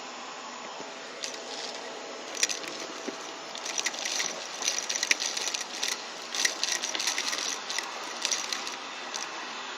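Vacuum cleaner running steadily, with irregular crackling and clicking of dry debris being sucked up, densest in the middle few seconds.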